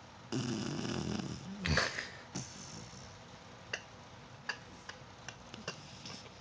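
Sleeping basset hound puppy snoring: one snore lasting over a second, ending in a short louder snort-like sound. A few faint ticks follow.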